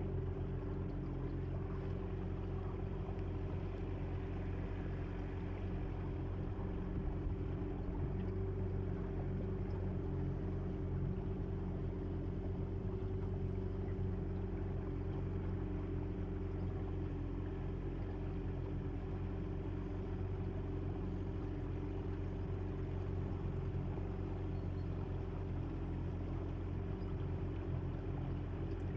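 Boat motor running steadily at an even speed, a constant low drone with no change in pitch.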